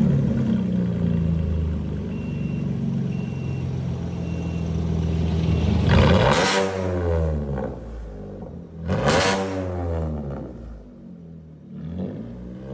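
2020 Chevy Colorado's engine through a straight-piped, muffler-deleted 2.5-inch cat-back exhaust, starting up and idling, loud. It is then revved twice, each rev rising and falling back to idle, with a smaller blip near the end.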